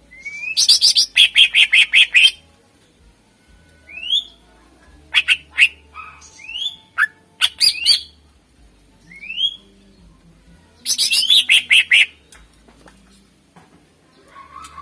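Green leafbird (cucak ijo) singing: single rising whistled notes scattered through, and two fast runs of repeated notes, about eight a second, one right at the start and another about eleven seconds in.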